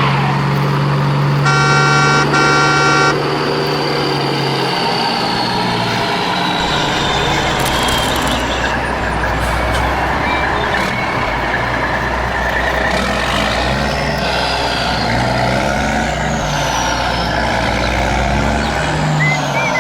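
Truck engine running steadily, with a horn sounding twice in quick succession about two seconds in.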